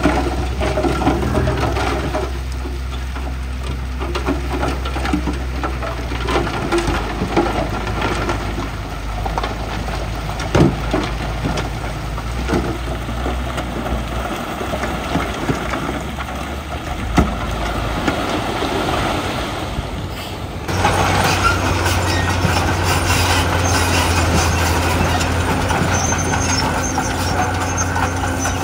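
Heavy diesel earthmoving machinery running and working, with scattered clanks and two sharper knocks as rock is moved. About two-thirds of the way through it cuts abruptly to a louder, steadier engine note.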